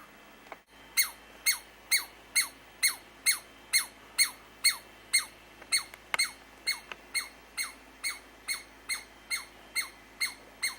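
Squirrel scolding: a long run of short, squeaky calls, about two a second, each sliding down in pitch. It starts about a second in.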